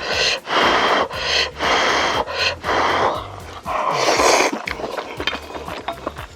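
Close-miked mukbang eating sounds: a run of about five noisy bursts, each roughly half a second long, with a breathy quality.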